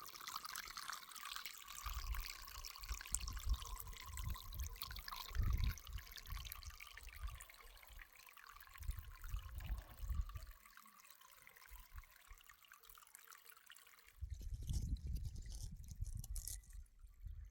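Irrigation water trickling and running, which cuts off suddenly about fourteen seconds in. Irregular low rumbles and thumps come and go underneath.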